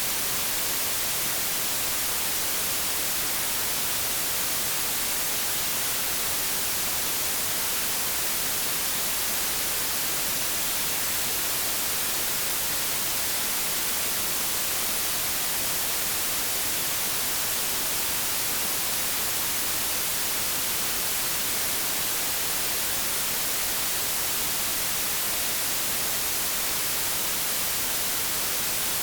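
Steady white-noise static, an even, unchanging hiss like a detuned TV or radio, brightest in the treble.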